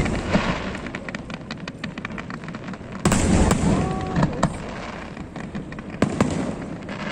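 Aerial fireworks bursting, with dense crackling throughout. Heavy bursts come about three seconds in and again about six seconds in.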